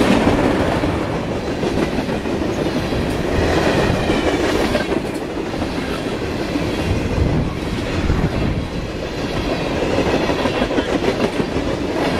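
Railroad train rolling past at speed, its wheels clattering over the rail joints, a steady rumble that swells and eases.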